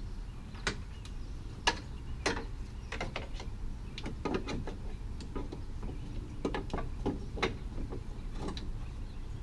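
Scattered clicks and knocks of car parts being handled and fitted back on during radiator work, the sharpest knock about a second and a half in, over a steady low rumble.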